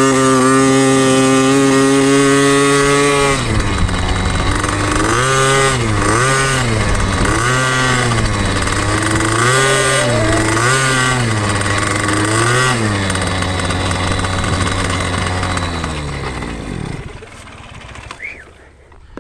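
Small single-cylinder two-stroke engine of a 2006 KTM 50SX youth dirt bike under way. It holds steady high revs for about three seconds, is then revved up and down about six times as it is ridden on the throttle, and finally drops off and fades as the bike slows near the end.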